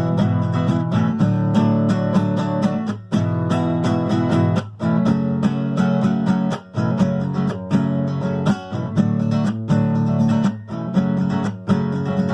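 Acoustic guitar strumming chords in a steady rhythm, an instrumental passage between sung verses, with brief breaks between strum patterns.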